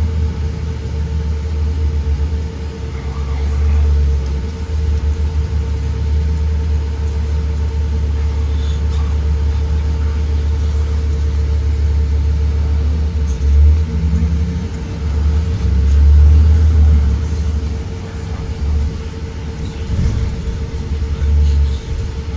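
2023 Blue Bird Vision school bus under way, heard from inside: a heavy low engine and road rumble that swells and eases, with a steady hum running under it.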